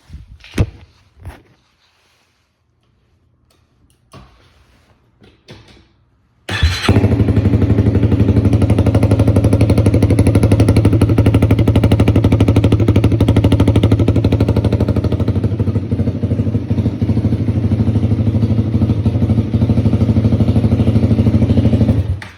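Honda Rebel 300's single-cylinder engine with an aftermarket shorty exhaust, starting suddenly about six and a half seconds in and then idling loud and steady, until it is switched off near the end. Before it starts there are a few short knocks and clicks.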